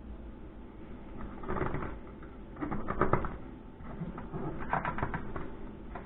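Parts of a fluorescent light fixture being handled: three short bouts of clicking and rattling, about 1.5, 3 and 5 seconds in, over a low hum.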